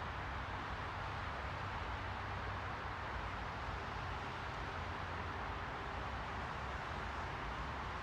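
A steady white-noise hiss, strongest in the middle range, with a low rumble underneath; it does not change.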